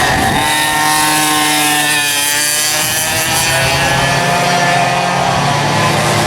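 Several two-stroke kart engines racing at high revs. Their pitch drops about two seconds in, as they slow for a corner, then climbs again as they accelerate away.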